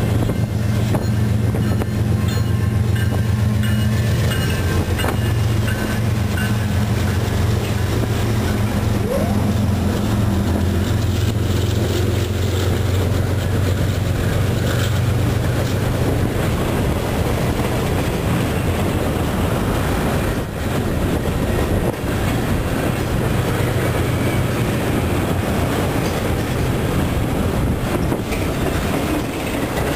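CN freight train passing close by at speed. For the first dozen seconds or so the low, steady drone of the diesel locomotives dominates, then it fades as the freight cars roll by with a continuous rumble and a rapid clickety-clack of wheels over the rail joints.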